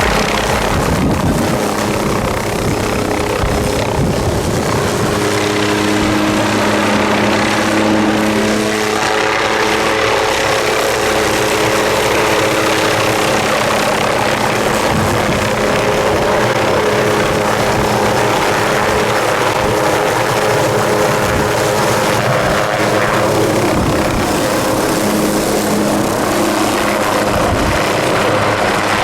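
Helicopter running close by: loud, steady engine and rotor noise with a steady hum of several tones.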